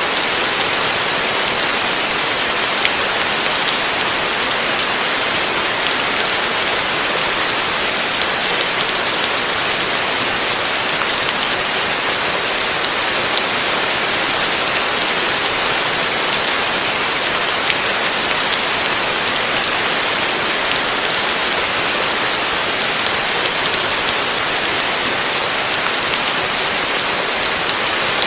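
Heavy rain falling steadily on a roof: a dense, even hiss with small drop ticks scattered through it.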